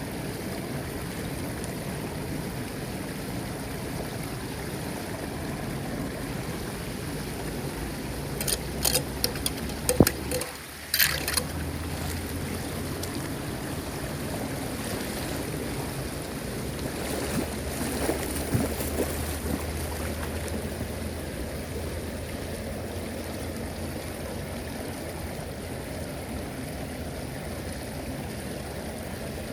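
Floodwater running steadily down a street drain, with a few sharp splashes or knocks about a third of the way in and again a little past halfway.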